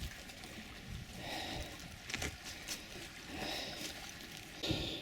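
A person breathing audibly close to the microphone, in slow swells about every two seconds, with a couple of faint knocks.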